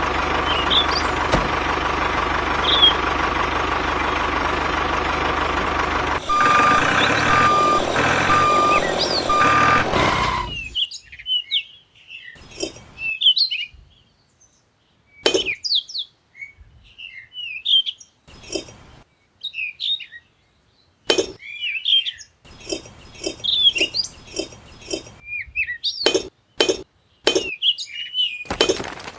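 A steady vehicle engine running for about ten seconds, with four evenly spaced beeps over it in the second part, then cut off abruptly. After that, birds chirp in short spells with silent gaps between them.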